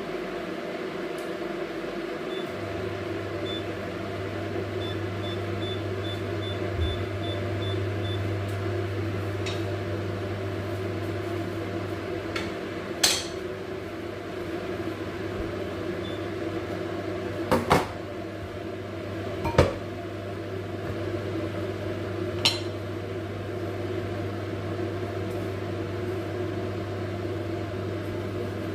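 Microwave oven switching on and running with a steady low hum, with a string of short high beeps a few seconds in. Several sharp clatters of dishes or pans are heard.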